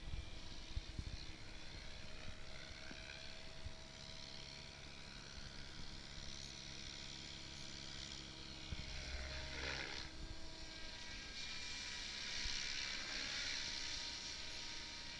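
Goblin 700 electric RC helicopter in flight: a steady high whine from its motor and rotor that shifts in pitch as it moves, with a close pass about ten seconds in.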